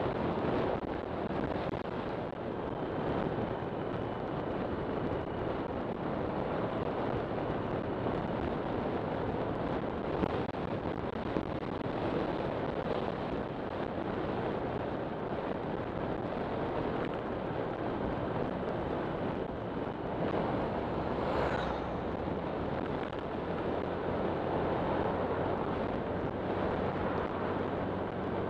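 Wind rushing over the microphone of a camera on a moving scooter, over the running single-cylinder engine and road noise of a Honda Click 125.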